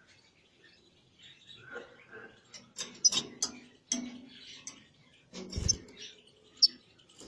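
Small cage birds giving short chirps, mixed with sharp clicks and knocks, and a dull thump about five and a half seconds in.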